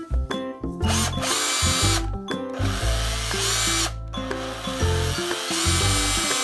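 Cordless power tool motor, a drill-driver or impact driver, run up three times in quick succession with brief pauses between the runs, being test-run to see whether it still works.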